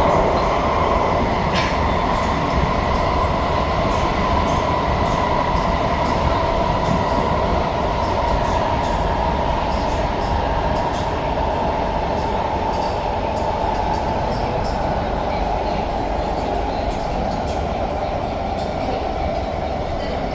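Loud, sustained screech from a moving SMRT C151A (Kawasaki-Sifang 'KSF A') MRT train, heard on board over the rumble of the running train. It is one high tone that slowly falls in pitch, the screeching these trains are known to make in tunnels.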